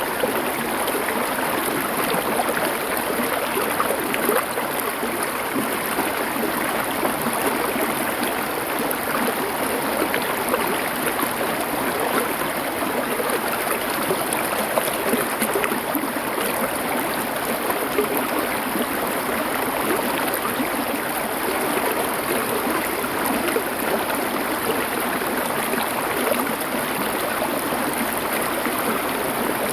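Small stream flowing steadily over stones, a continuous rushing and gurgling of water.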